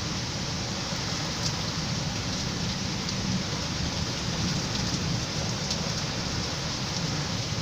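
Heavy rain falling steadily in a windy storm, with a low rumble of wind underneath and a few sharper drop hits.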